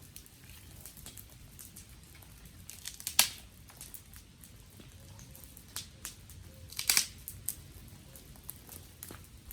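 Wood fire crackling with scattered small pops. Two louder sharp snaps stand out, one about three seconds in and another about seven seconds in.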